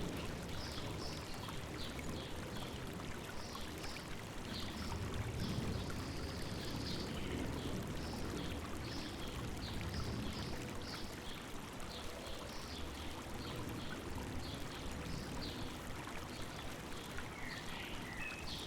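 A river flowing over rocks with a steady rush, while small birds keep up short, high chirps throughout. Shortly before the end a different bird gives a few lower, sliding calls.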